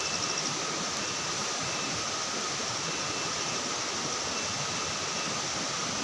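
Steady hiss of heavy rain in the forest, with a faint steady high tone and short high chirps every second or two, like insects.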